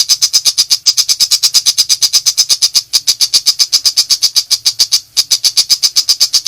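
Pentet macan (tiger shrike) singing its rapid 'nembak' chatter: a fast, loud run of sharp, high notes at about eight or nine a second, broken by a few brief catches.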